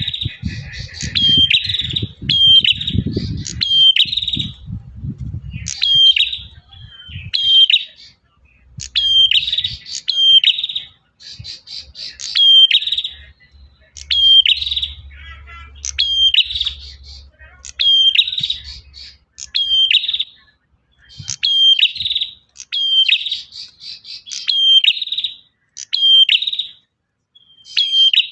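A male prenjak (prinia) singing over and over: short loud phrases, each a sharp downward-sweeping note followed by a quick chatter, roughly one a second, the call a male uses to call a female. A low rumble sits under the song for the first few seconds.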